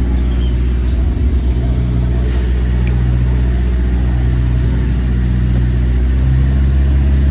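Tour boat's engine running with a steady low drone, heard from on board.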